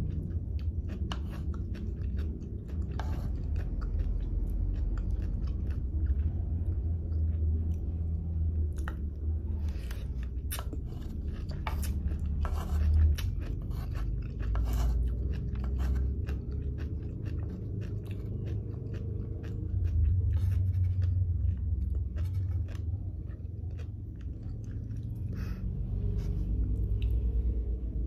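Close-miked chewing of sea grapes, with many short sharp pops and crunches as the little beads burst, over a steady low rumble.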